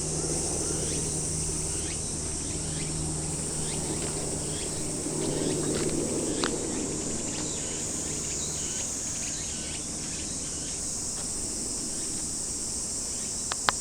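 Minmin cicadas (robust cicadas) singing in a steady, continuous high-pitched chorus. A low steady hum runs underneath until about two-thirds of the way through, and there is a sharp click near the end.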